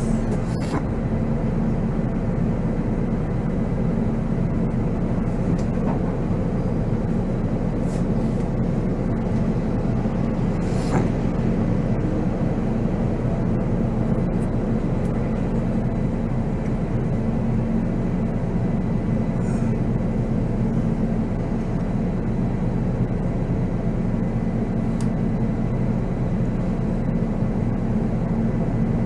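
Volvo B7R coach's six-cylinder diesel engine running at a steady pitch with road noise, heard from the driver's seat, with a couple of faint ticks.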